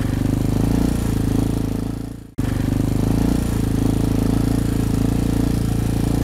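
Dual-sport motorcycle engine running at a steady speed while riding through snow. The sound fades and cuts out briefly a little over two seconds in, then the engine resumes.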